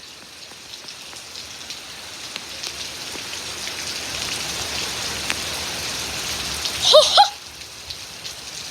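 Storm rain driven by the wind onto surfaces, a dense hiss of drops that builds up over the first few seconds. About seven seconds in, a person gives a short cry.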